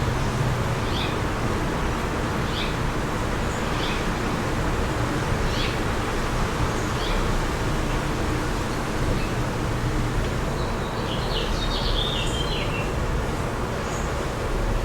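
Wind blowing steadily, with a small bird chirping repeatedly, one short high chirp about every second and a half, and a quicker run of chirps about two-thirds of the way through.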